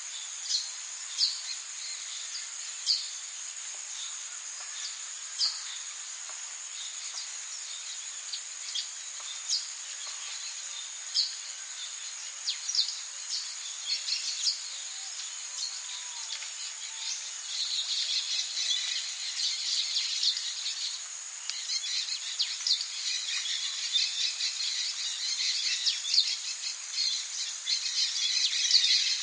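Tropical rainforest ambience: a steady high-pitched insect drone with short, sharp bird chirps every second or so, turning into dense, overlapping chirping a little past halfway.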